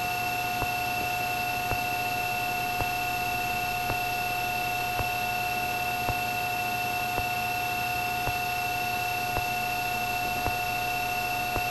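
Cessna 310 cockpit noise as picked up through the intercom: a steady hiss and hum with two steady whining tones, and a small tick about once a second.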